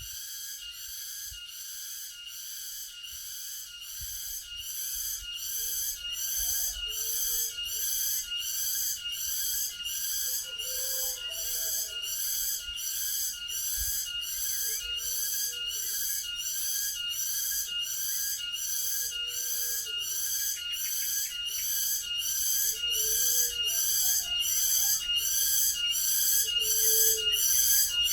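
Tonggeret cicada singing a shrill, pulsing call at a little over one pulse a second, growing steadily louder.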